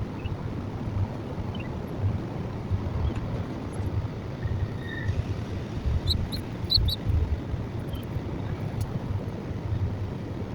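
Wind buffeting the microphone with a steady low rumble, with a few short, high bird chirps, the clearest a cluster about six to seven seconds in.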